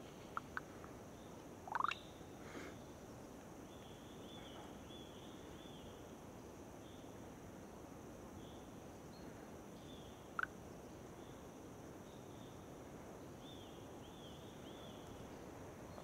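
Small birds chirping faintly in short repeated groups over a steady outdoor hiss, with a louder rising call about two seconds in and a sharp chirp near ten seconds.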